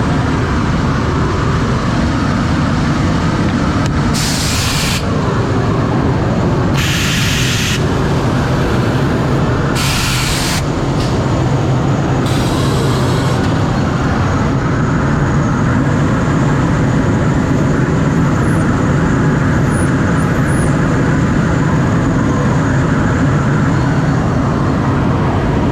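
CNC router milling beech boards, a loud steady machine noise with a low hum. Four short bursts of high hiss cut in between about four and thirteen seconds in.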